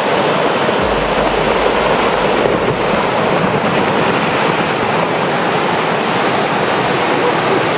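Rockfall from a collapsing cliff: a steady, loud rushing noise of falling rock and debris, with a deep rumble underneath from about a second in until about halfway through.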